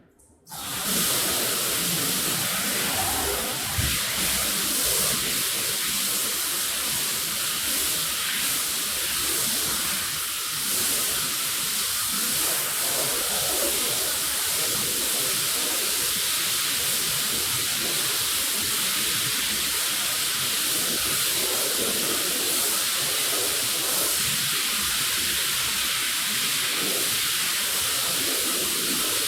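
Steady hiss of water jetting from a pressure washer onto a rug, starting about half a second in.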